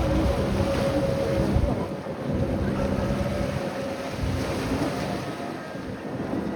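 Wind buffeting the microphone over open water, with the low, steady drone of a boat engine that fades out after about a second and a half.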